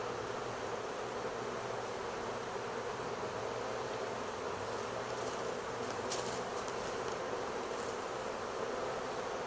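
A large swarm of honey bees flying all around, thousands of wings making a dense, steady buzzing hum.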